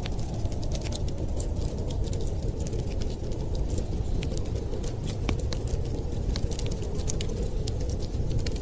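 Wood fire crackling, with many small sharp pops and snaps at irregular intervals over a steady low rumble.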